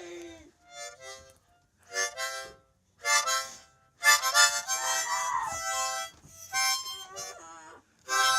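Harmonica blown in a series of short chords with pauses between them, one longer chord held for about two seconds near the middle.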